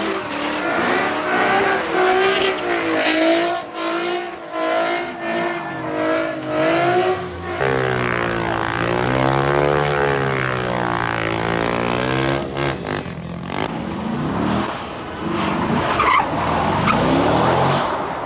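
A car spinning its tyres in a burnout, with the engine revving and the tyres squealing. The pitch rises and falls in repeated waves, then breaks off into a rougher, noisier sound about two-thirds of the way through.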